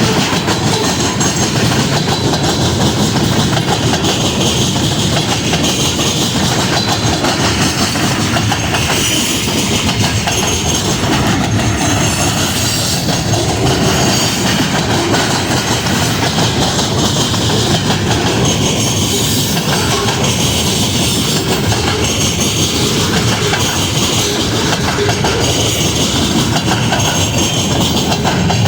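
A train rolling past, a loud steady rumble with its wheels clicking over the rail joints.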